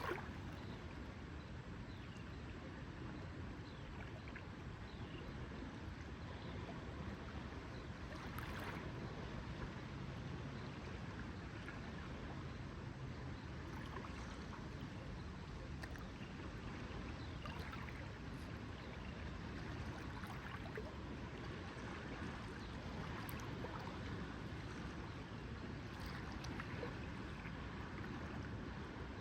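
Lake water lapping gently and steadily, with scattered small splashes and drips.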